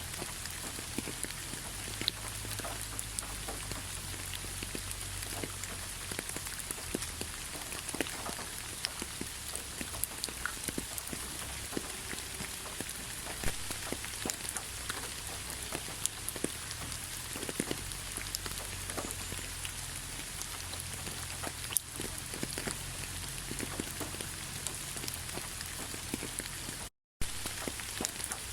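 Steady rainfall with many separate raindrops striking close by, each a sharp little tick over the even hiss of the rain. About a second before the end the sound cuts out completely for a split second, then resumes.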